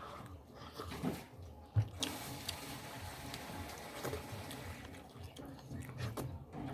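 Close-up eating sounds: chewing and mouth noises from someone eating mutton curry and rice, with scattered small clicks and one sharp knock a little under two seconds in.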